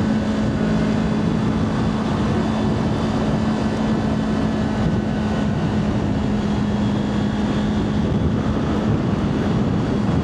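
Kawasaki Ninja 400 parallel-twin engine running at a steady cruise, a constant hum under heavy wind and road noise on the rider's microphone.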